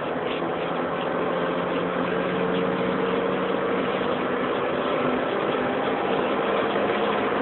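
Cabin sound of a supercharged BMW 318ti's four-cylinder engine pulling steadily at autobahn speed, heard over a phone microphone: a steady engine drone mixed with road and wind noise, getting slightly louder.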